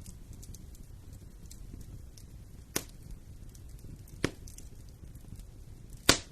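Wood fire crackling in a fireplace over a low steady rumble, with many faint ticks and three loud sharp pops, about a second and a half apart, the last near the end the loudest.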